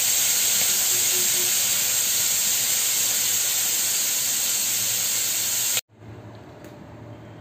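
Chicken pieces and tomatoes shallow-frying in oil in a frying pan: a steady, loud sizzle. It cuts off suddenly about six seconds in, leaving only a faint low hum.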